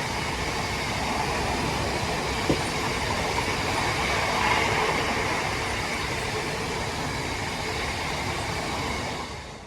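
Freight stone train hauled by a Class 66 diesel locomotive passing: a steady rumble of wagon wheels on the rails with faint squealing tones, dropping away sharply near the end as the train clears.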